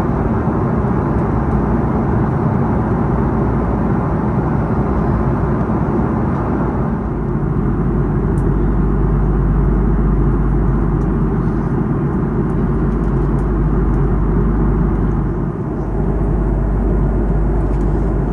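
Steady in-flight cabin noise of an Airbus A330-300 airliner: an even rush of airflow over a low engine drone, with a brief dip in level about fifteen seconds in.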